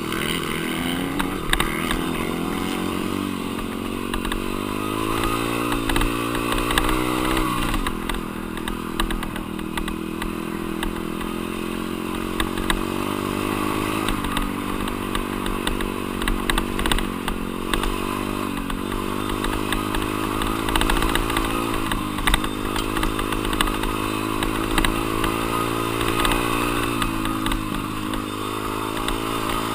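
Dirt bike engine under throttle while riding. Its pitch climbs as it revs out, then drops sharply at a gear change about eight seconds in, with a few shorter dips later as the throttle eases and picks up again.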